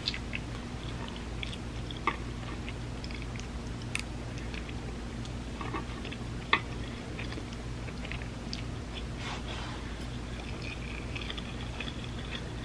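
A person chewing vegan spam musubi close to the microphone: soft wet mouth sounds and small clicks, with a few sharper clicks along the way. A steady low hum sits underneath.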